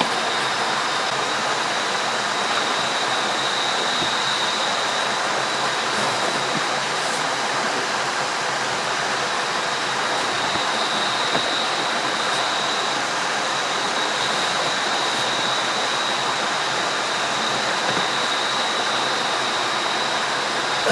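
River water rushing steadily over rocks, with a thin steady high-pitched tone held above it.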